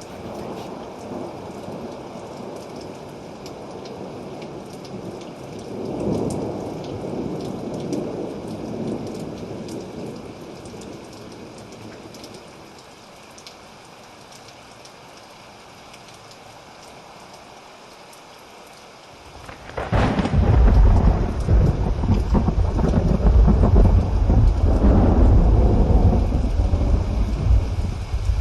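Steady rain falling, with a swell of distant thunder about six seconds in. About two-thirds of the way through a loud, long thunder rumble breaks in and carries on until near the end.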